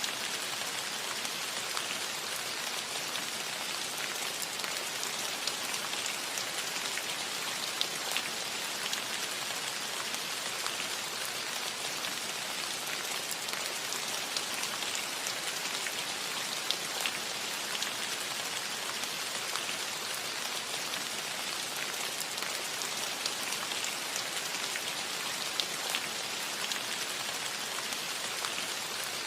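Steady rain falling on a metal roof: an even hiss of rain with many small, sharp drop ticks scattered through it.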